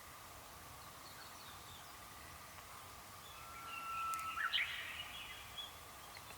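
A bird's drawn-out whistle that rises sharply at its end about three seconds in, followed by a brief jumble of higher calls, over a steady background hiss.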